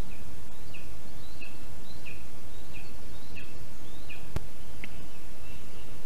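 A bird calling a short, falling note about seven times at an even pace, over a steady hiss of background noise. A single sharp click sounds a little past the middle.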